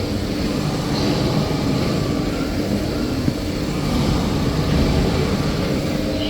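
Semi-automatic band saw machine for maxi paper rolls running steadily, a continuous mechanical hum with a constant low tone.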